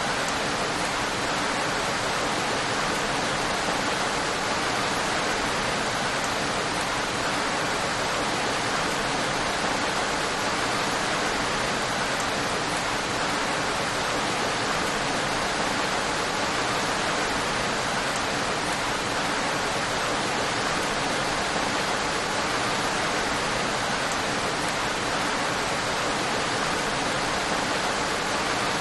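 Steady rain: an even, dense hiss of rainfall that doesn't change.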